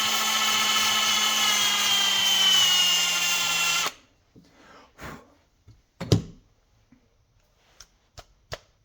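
A small power tool's motor running steadily, its pitch sagging slightly as it works. It cuts off abruptly about four seconds in, followed by a few light knocks and clicks of small metal parts being handled. It is being used to clean up parts of a lawn-tractor starter motor.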